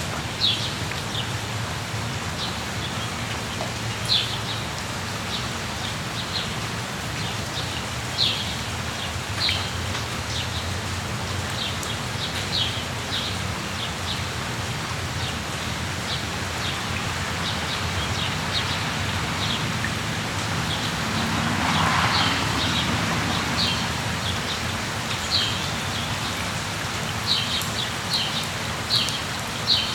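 Steady rain falling, with short high bird chirps scattered throughout that come quicker near the end. About two-thirds of the way through, a louder rushing swell rises and fades over a couple of seconds.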